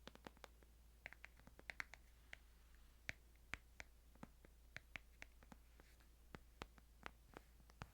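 Light, irregular clicks and taps, about three or four a second, from fingers tapping and handling a Bible for ASMR.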